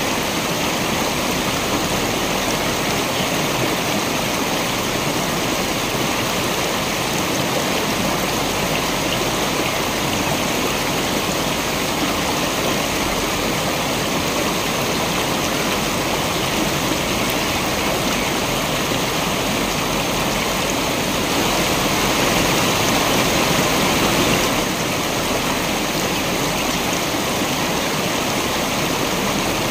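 Waterfall water rushing in a steady, dense roar of noise, swelling a little louder for a few seconds about two-thirds of the way through.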